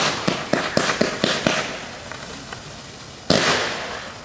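Fireworks display: a rapid string of sharp bangs, about four a second, for the first second and a half, then a fading crackle. About three seconds in, a sudden loud burst of crackling that dies away.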